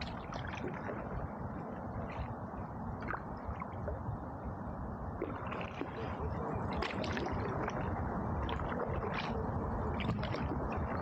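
Canoe paddle dipping and pulling through river water, gurgling and splashing at irregular intervals over a steady low rush of noise.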